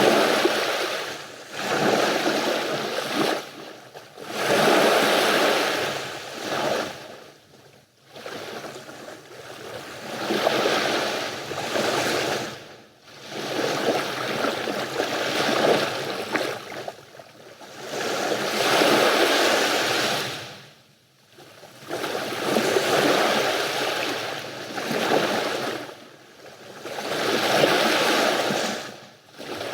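Sea waves breaking and washing up a beach, a surge every three to five seconds that swells and falls away, with short lulls between.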